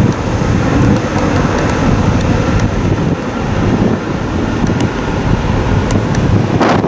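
Jet airliner engine noise, a loud steady rumble, with wind buffeting the microphone.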